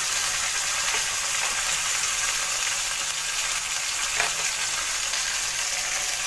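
Chopped onion, garlic and ginger sizzling steadily in hot vegetable oil in a kadai, with a couple of faint clicks.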